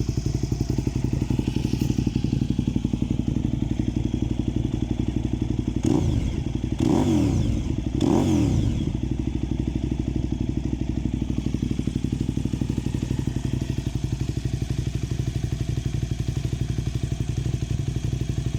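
KTM 990 Super Duke's V-twin idling with an even pulse through a Mivv Suono titanium exhaust, blipped three times in quick succession about six to eight seconds in, each rev rising and falling back to idle.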